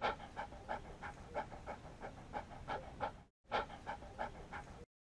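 Dog panting rapidly and rhythmically, about three breaths a second, with a short break partway through before it cuts off suddenly near the end.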